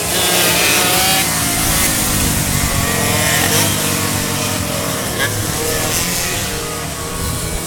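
Car engine revving and accelerating, its pitch rising and falling.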